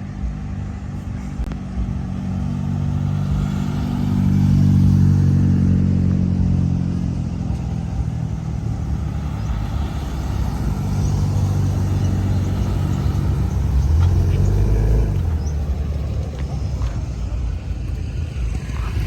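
Car engine running with a low rumble, swelling louder about four seconds in and again around fourteen seconds.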